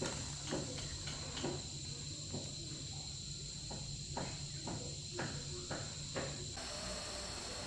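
Insects droning steadily in high, even tones, with a series of short knocks or taps, several about half a second apart; the background changes abruptly near the end.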